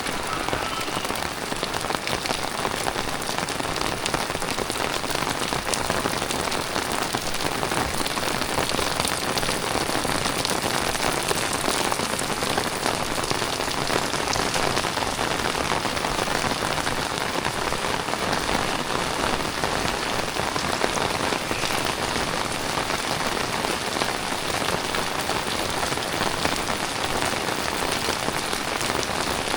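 Heavy tropical rain falling steadily, a dense hiss of drops striking the ground, puddles and nearby surfaces, with many small patters through it.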